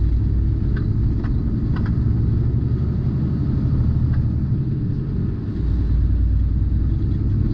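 Steady low rumble of a tractor-trailer driving, heard inside the cab, with a few faint light ticks or rattles over it.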